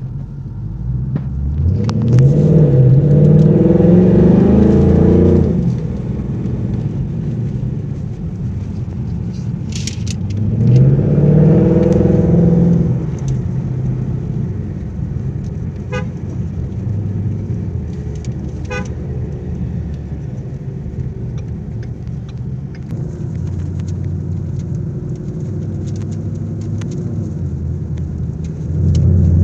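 Ford Mustang GT's V8 through a Borla exhaust, accelerating twice with its note rising each time, then running at a steady low rumble, and starting to rise again near the end. Two short toots sound a little past the middle.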